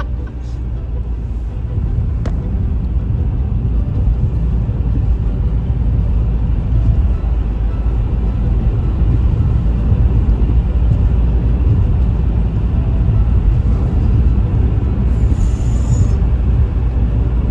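Road noise inside a moving car on a bumpy, snowy road: a steady low rumble of tyres and engine, with a single sharp knock about two seconds in.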